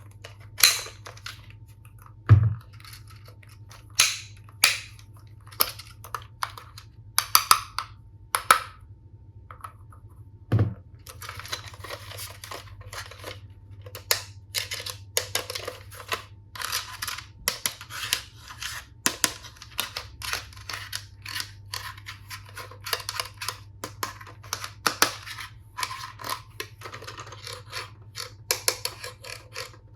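Hard plastic toy tool pieces handled and knocked together: irregular sharp clicks and taps, with a dull thump about two seconds in and another about ten seconds in, then a denser run of small clatter.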